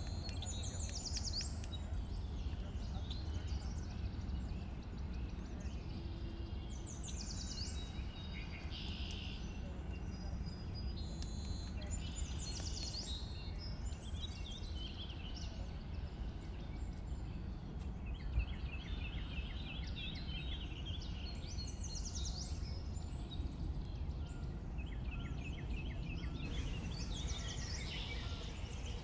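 Wild birds calling over a steady low background rumble: repeated short trills and chirps come and go, including a run of evenly spaced chirps past the middle. One sharp knock stands out about two-thirds of the way through.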